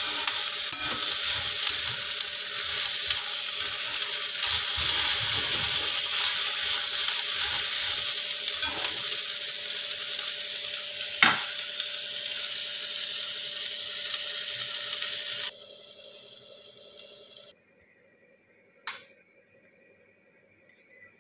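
Diced yam and onion sizzling in hot oil in a kadai, stirred and scraped with a metal spatula. The sizzle runs steadily for about fifteen seconds, drops lower, then cuts off into near silence broken by a single sharp click.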